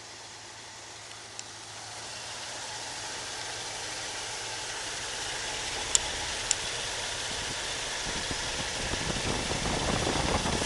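Ford 351 V8 engine of a 1972 Torino idling after a cold start, growing gradually louder, with two sharp clicks about halfway through.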